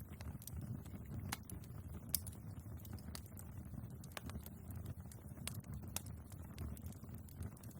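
Wood fire burning in a fireplace, its logs crackling with irregular sharp pops over a steady low rumble of the flames; one pop stands out about two seconds in.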